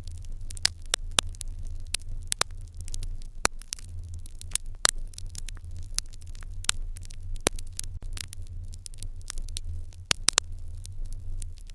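Fire crackling in an irori hearth: irregular sharp crackles and pops, a few of them loud, over a steady low rumble.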